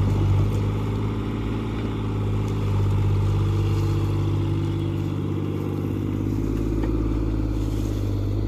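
Excavator's diesel engine running steadily, its pitch shifting a little partway through.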